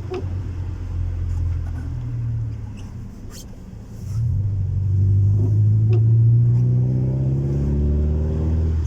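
Honda Civic 1.4i S's four-cylinder engine running through a custom-made exhaust with a low, steady drone. About four seconds in it gets louder and its note shifts as the engine is put under load, then it drops back just before the end.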